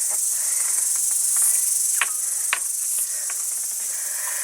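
Insects chirring steadily in a continuous high-pitched drone, with a few faint clicks or knocks.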